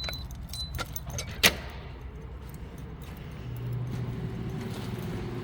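A bunch of keys jangling and clicking, with one sharp metallic click about a second and a half in; a steady low hum sets in after about three and a half seconds.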